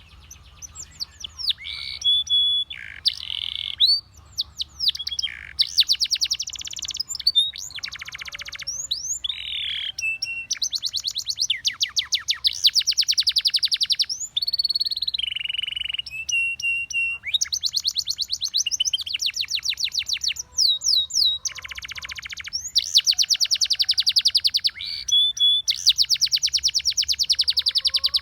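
Russian singing canary in full song: long rolls of very rapid, evenly repeated notes alternating with sweeping whistled slurs that rise and fall, the phrases separated by brief pauses.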